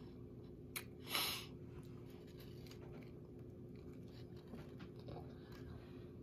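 A person chewing a mouthful of a sub sandwich with soft, faint mouth clicks. A sharp click comes just under a second in and a brief louder noise follows it. A steady low hum runs underneath.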